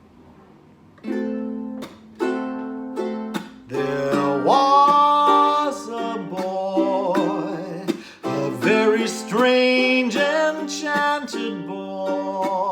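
A ukulele strumming and plucking chords, first alone with a few separate strokes, then with a voice singing a slow, wavering melody over it from about four seconds in.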